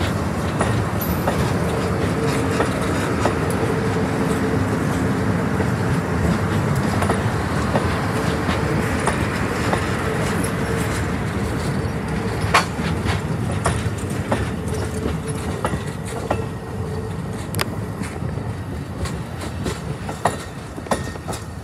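Amtrak passenger cars rolling past at speed: a steady rumble of wheels on rail with a steady tone in it, then a run of sharp clacks as the trucks of the rear baggage car cross rail joints, the sound fading slowly as the end of the train passes.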